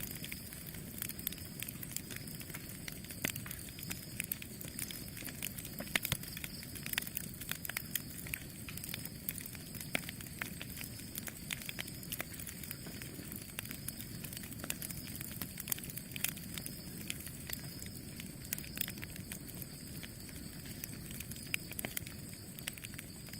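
Campfire burning, the wood crackling with many irregular sharp snaps over a steady low noise of the flames; the loudest pops come about six and ten seconds in.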